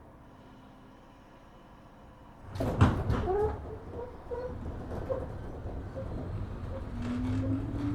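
Sliding doors of a 103 series 1500 subseries electric train shutting with a loud knock about two and a half seconds in. The train then starts off with a low rumble, and near the end the traction motor whine rises in pitch as it pulls away.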